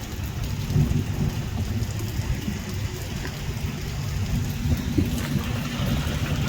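Rain falling, with a steady low rumble underneath.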